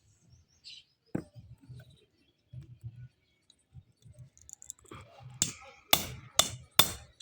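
A single sharp tap about a second in, then four sharp taps about half a second apart near the end, over a faint low rumble.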